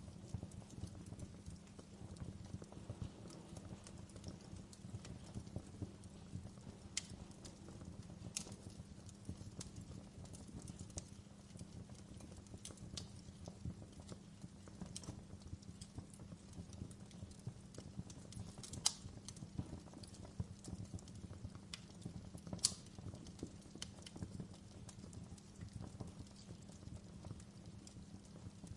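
Wood fire in a fireplace crackling: a steady low rumble with frequent small pops and a few sharper snaps. The two loudest snaps come in the second half.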